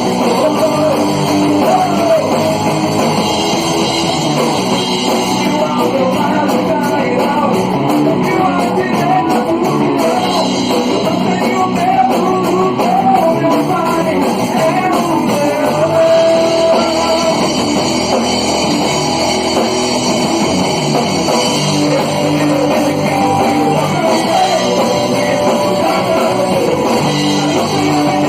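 A small group of friends playing a song live in a rock style, with guitar and a voice singing over it.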